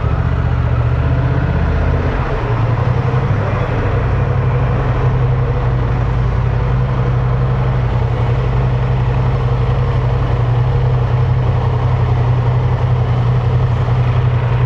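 Honda Transalp 750's parallel-twin engine running steadily at low revs, its note shifting slightly about two seconds in.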